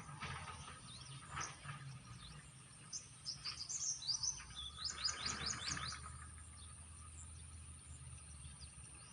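A small bird singing outdoors: a run of quick, high chirps, each sweeping downward, coming in rapid succession between about three and six seconds in.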